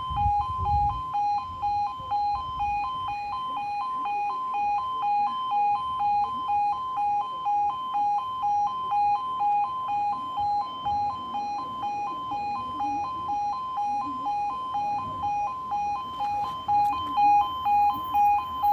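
Level crossing warning alarm sounding: a two-tone yodel, alternating evenly between a lower and a higher pitch several times a second, warning of an approaching train.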